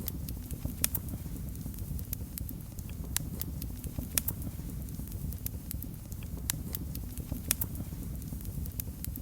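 Wood fire crackling: irregular sharp pops and snaps, a few louder ones, over a steady low rumble of flames.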